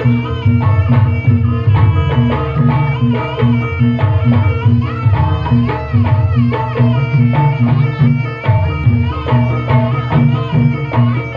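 Javanese jaranan campursari music: a traditional ensemble of hand drums and pitched percussion playing a steady, driving beat, with a repeating pitched note over a heavy low bass line.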